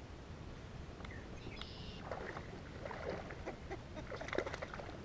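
Irregular light splashing and small knocks of water around a fishing kayak, starting about two seconds in, over a steady low rumble.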